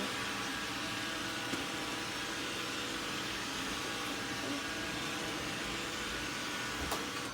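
Roomba 890 robot vacuum running a spot clean: a steady whir of its vacuum motor and brushes.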